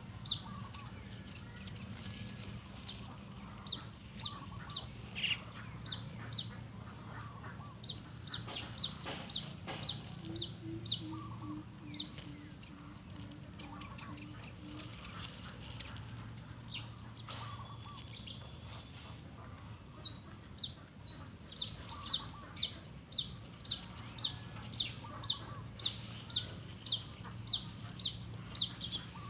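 Bird chirping: a short, high, falling note repeated about twice a second in long runs, pausing in the middle. There is a brief series of lower notes partway through, over a steady low hum.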